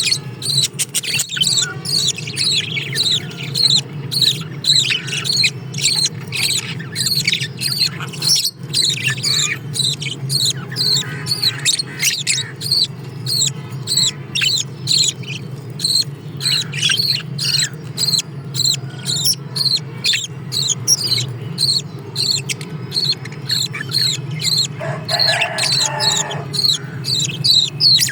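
Small cage birds chirping rapidly and without pause, short high calls about two or three a second, over a steady low hum.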